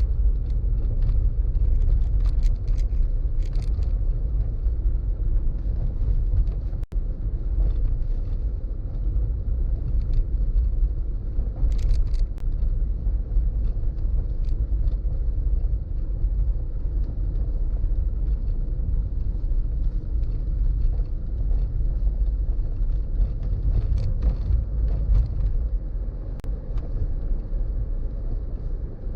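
A car driving along a road: steady low rumble of engine, tyres and wind, with faint scattered ticks and a brief dropout about seven seconds in.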